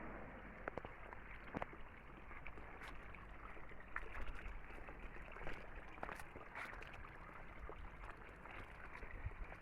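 River water flowing over stones: a faint, steady rush with many small splashes and drips scattered through it.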